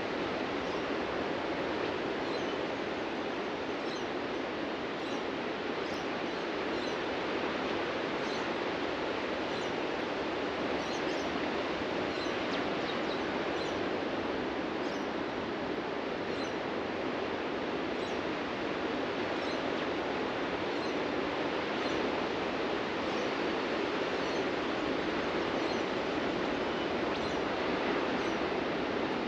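Ocean surf washing onto a beach, a steady rush with slight swells, with small birds chirping faintly and sporadically.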